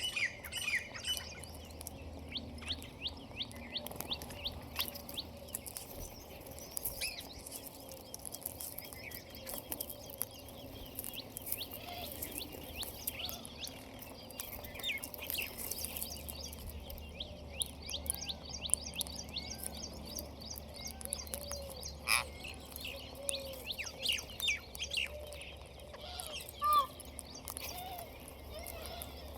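Birds chirping and twittering in quick, busy runs of short high notes, with a few sharper, louder calls standing out about three-quarters of the way through.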